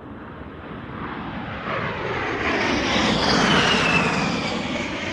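Scale RC turbine model helicopter flying past: rotor and engine noise swells to a peak about three and a half seconds in, while a high turbine whine drops in pitch as it goes by, then eases off.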